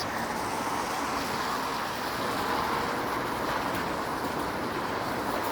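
Steady city street traffic noise on rain-wet pavement, an even hiss of tyres and passing vehicles.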